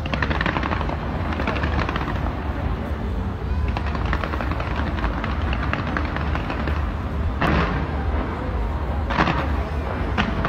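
Fireworks display: dense crackling and popping over a steady low rumble, with several sharper, louder bangs in the last three seconds.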